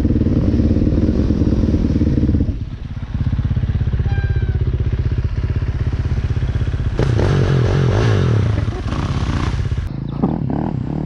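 Dirt bike engine running on a trail ride, holding a steady throttle with a brief dip about two and a half seconds in, then pulling harder for a few seconds from about seven seconds in.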